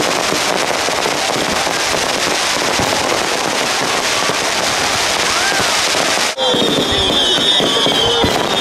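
Fireworks display going off: a dense, continuous crackle of bursting fireworks. After an abrupt break about six seconds in, a high whistle joins the crackling, falling slightly in pitch.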